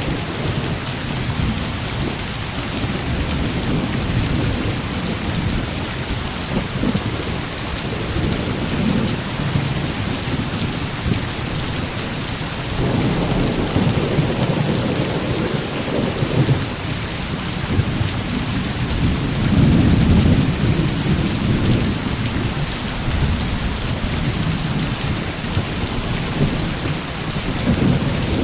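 Heavy rain pouring steadily, with rolling thunder rumbling low underneath that swells twice, about halfway through and again a little later.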